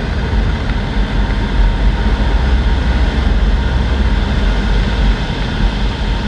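Cessna 152 Aerobat's four-cylinder Lycoming engine and propeller running steadily in flight, a constant low drone.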